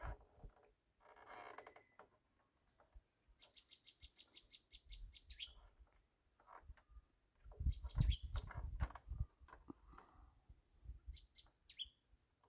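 A bird chirping: a quick trill of high chirps a few seconds in and a few more near the end, with a cluster of dull knocks and thumps around eight seconds in.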